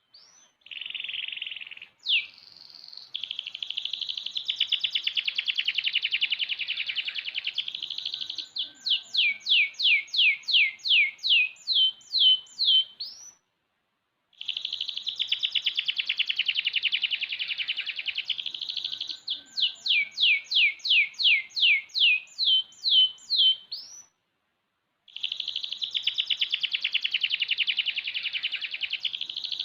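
Six-month-old domestic canary singing in full voice: long song phrases of rapid trills ending in a run of quick, falling whistled notes, repeated three times with a brief pause between.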